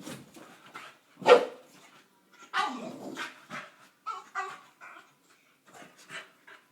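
A boxer dog making her usual weird whining noises in a string of short bursts. The loudest is a sharp bark-like yelp about a second in, followed by a longer whine and smaller grunts and pants.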